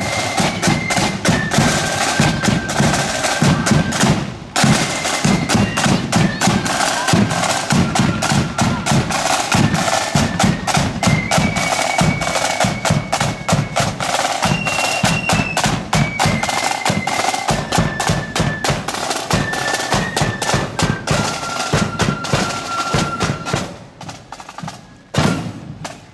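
Marching band playing on the march: rapid snare drumming and bass drum beats under a high, shrill melody line. The music drops away about three-quarters of the way through.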